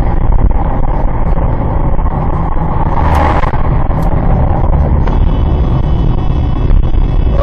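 Steady rumble of a car driving, with a brief louder rush about three seconds in and a short click about a second after that.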